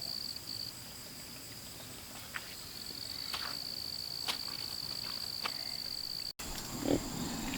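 Insects singing: a steady high-pitched drone that drops out briefly about a second in and then resumes, with a few faint clicks. The sound changes abruptly near the end.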